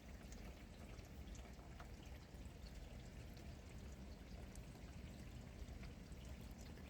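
Steady rain falling, a faint even hiss with scattered small drop ticks.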